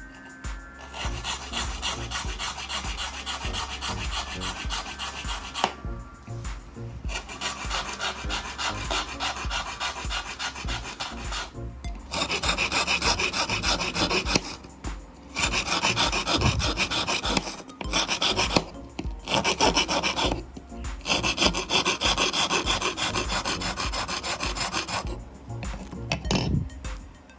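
Hand filing: quick, rasping back-and-forth strokes in several spells, broken by brief pauses.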